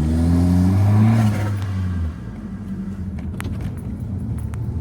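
2012 Acura RDX's turbocharged 2.3-litre four-cylinder, with its rear muffler deleted and a glasspack resonator, accelerating hard in a tunnel. The exhaust note rises in pitch for about a second and a half, then cuts off suddenly about two seconds in as the throttle is lifted, settling to a low rumble. A few sharp clicks come near the end.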